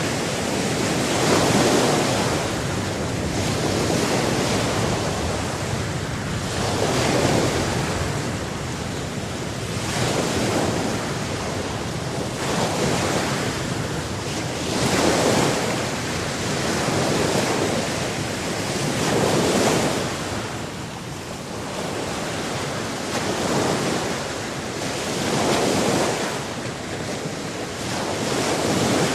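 Sea waves breaking and washing ashore, the surf swelling and fading every two to three seconds.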